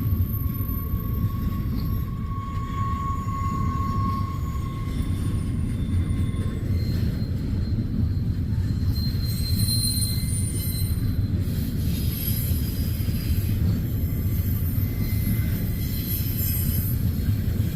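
Freight train cars rolling past, a steady low rumble of wheels on rail with thin high-pitched wheel squeals coming and going.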